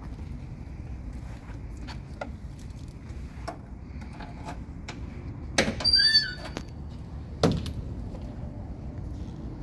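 Car door of a 1979 Chevrolet Camaro opened with a brief wavering squeal about halfway through, then shut with a single loud thump about two seconds later, over steady wind rumble and a few light clicks.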